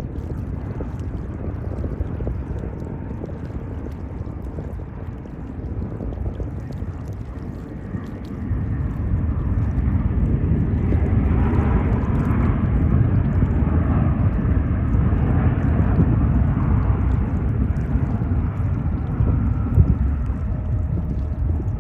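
Jet airliner engines rumbling as a plane passes, the low roar growing louder about eight seconds in, with a faint higher engine whine over it for a few seconds in the middle.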